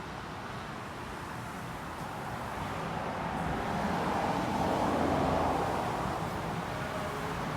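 Road traffic noise with a vehicle passing, swelling to its loudest about five seconds in and then fading.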